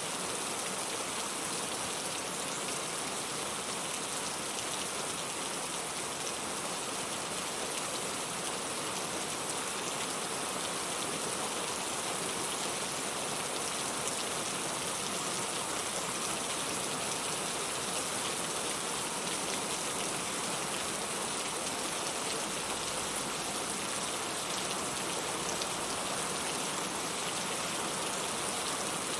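Steady rain falling: an even hiss of many fine drops, with no change in level.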